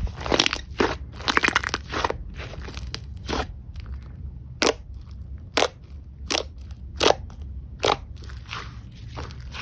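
Slime being squeezed and pressed by hand, giving short crackles and pops: dense clusters at first, then single crackles about once every second.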